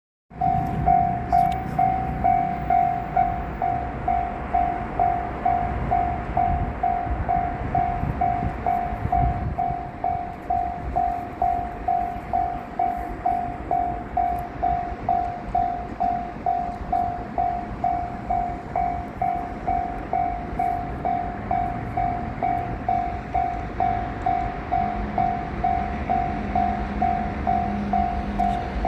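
A railway level-crossing warning bell rings in an even, repeating rhythm as a freight train rumbles past on the rails. A steady low hum comes in near the end.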